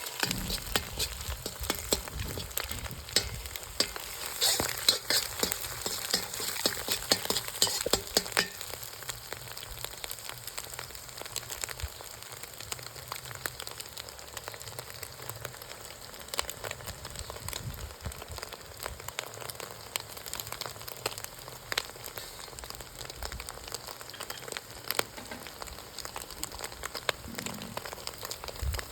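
Food frying in a hot pan, sizzling steadily, with quick scrapes and clicks of stirring. About a third of the way in the stirring eases off to a steadier sizzle with only occasional clicks.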